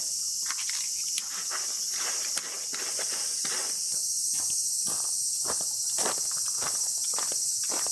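A steady, high-pitched chorus of summer insects, with irregular light clicks and taps scattered through it.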